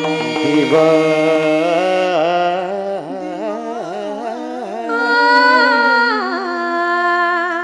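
A woman's voice singing a wordless, ornamented melodic passage of kirtan devotional song over a steady drone, settling into one long held note about five seconds in.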